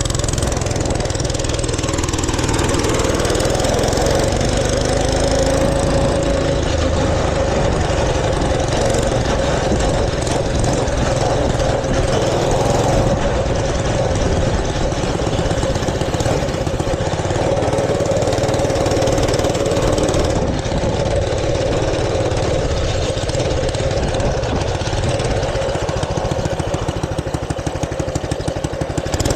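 Mini bike's small engine running steadily, with a fast regular firing beat.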